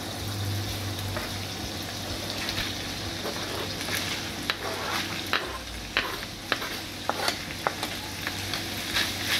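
Shredded cooked chicken dropping into a frying pan of hot fat with onion and garlic, sizzling steadily, with sharp taps and scrapes of a wooden spatula against the plastic cutting board and pan from about four seconds in.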